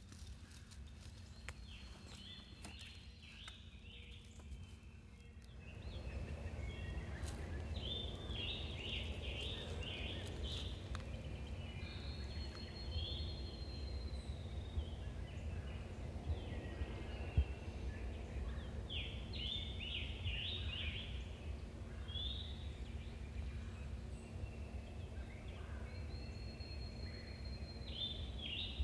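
A bird calls over and over in short phrases, each a held high note followed by a quick jumble of notes, roughly every seven seconds. A low rumble underneath grows louder about six seconds in.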